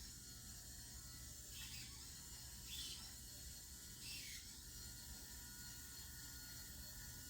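Faint, steady whir of a remote-control model car's small motor and drivetrain as it drives along, swelling briefly a few times.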